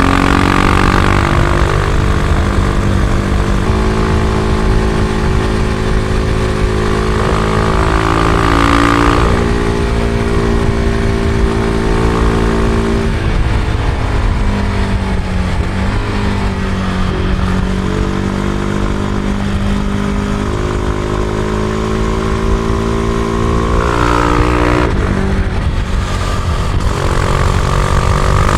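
Husqvarna Vitpilen 701's single-cylinder engine riding along, its note climbing and then stepping down several times as it shifts through the gears. In the middle it dips and slowly climbs again, and near the end it rises and drops once more, over a steady rush of wind and road noise.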